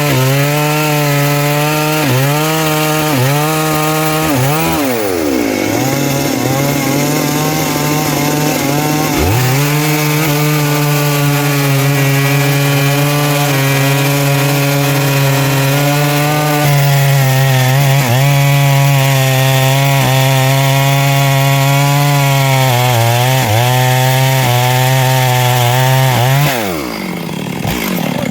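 Stihl MS 382 two-stroke chainsaw with a 24-inch bar running at full throttle while cutting through wood, its pitch sagging briefly again and again as the chain bites under load. The engine drops away about five seconds in and climbs back up a few seconds later. Near the end the throttle is released and it falls back toward idle.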